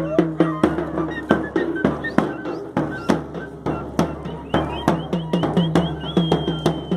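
Drum music: a drum beaten in a steady rhythm of about two strokes a second, with high flute-like notes over it that rise in short slides and hold one long tone near the end.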